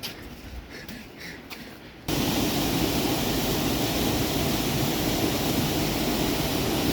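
Steady loud rushing of water, starting abruptly about two seconds in after a quiet moment.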